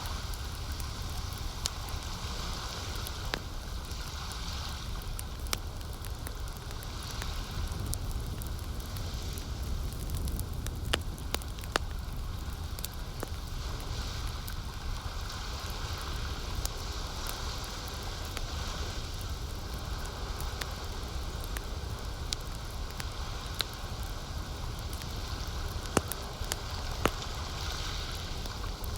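Campfire crackling, with many sharp pops and snaps; the loudest come about a third of the way in and again near the end. Under it is a steady low rumble and a hiss that swells and fades every few seconds, like lake water lapping at the shore.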